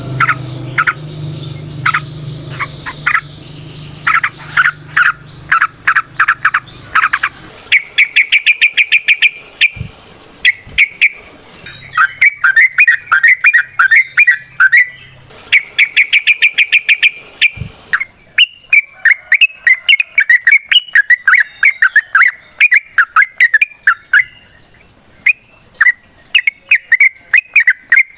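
Yellow-vented bulbul singing loud, fast runs of bubbly chattering notes, phrase after phrase. A low steady hum sits under the song for the first quarter or so.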